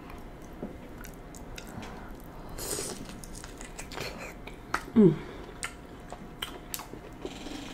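Close-up chewing and biting of broiled lobster tail meat coated in butter sauce: small wet clicks and mouth smacks, with a brief wet smacking patch in the first few seconds. About five seconds in, a short hum from the eater, falling in pitch, is the loudest sound.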